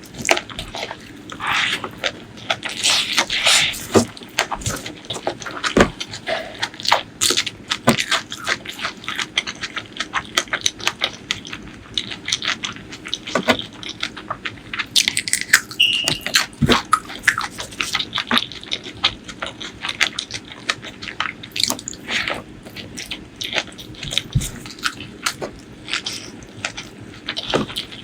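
Close-miked eating sounds: wet chewing and biting of a spicy chicken and curry meal, with many irregular sharp clicks throughout.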